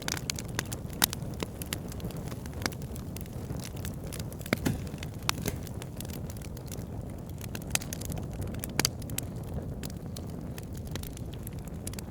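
Campfire burning: a steady low rumble of flames with sharp, irregular crackles and pops, a few of them louder than the rest.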